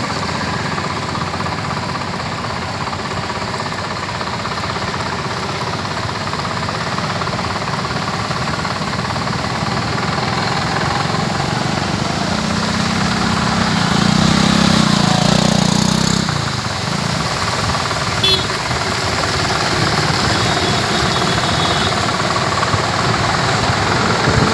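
Street traffic: motor vehicle engines running with a steady rattle, and a louder stretch as a vehicle passes close about thirteen to sixteen seconds in.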